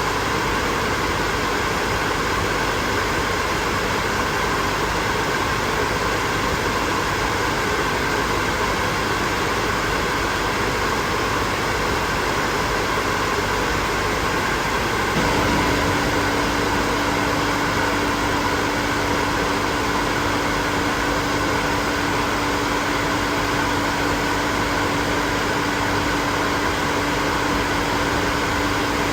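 Hair dryer running steadily, an even rushing noise of its fan and blown air. About halfway through, a steady low hum joins in and stays.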